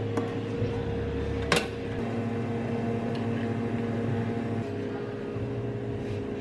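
A steady machine hum from a cafe kitchen appliance, with small clicks and one sharp click about a second and a half in.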